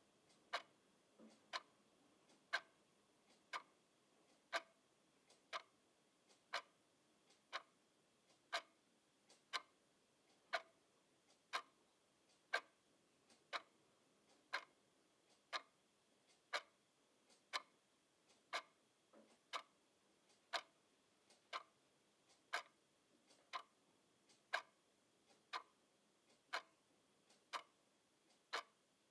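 Clock ticking steadily, short sharp ticks at about one a second.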